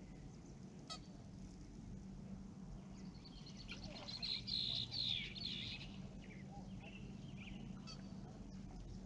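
Birds calling: a flurry of short, high, falling calls about three to six seconds in, with a few scattered calls before and after, over a steady low hum.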